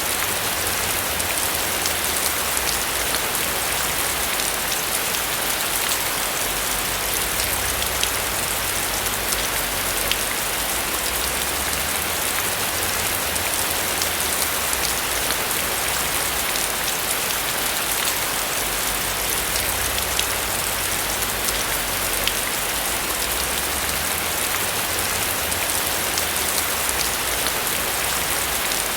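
Steady rain falling on a roof, an even hiss with many individual drops ticking. A low rumble underneath swells and fades every few seconds.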